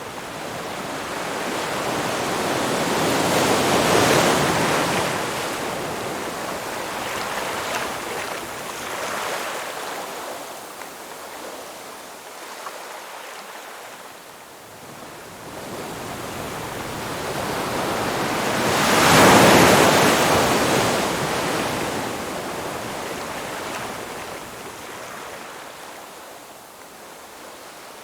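Ocean surf: two waves break and wash in, each as a rising and fading rush of water. The first peaks about four seconds in, and a louder one peaks about two-thirds of the way through.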